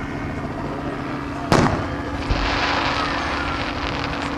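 Aerial fireworks shells bursting: one sharp boom about a second and a half in, a fainter thump soon after, then a hiss as the burst burns out.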